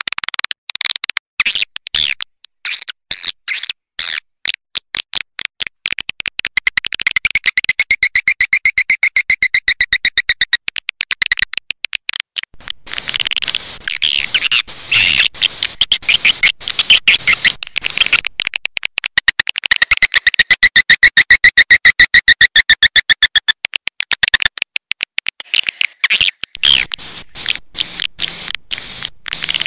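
Swiftlet lure call recording of edible-nest swiftlet twittering, used to draw swiftlets into a nesting house: rapid trains of high chirps and clicks. Twice the chirps run together into a long, fast, even trill, near the middle of the first half and again in the second half.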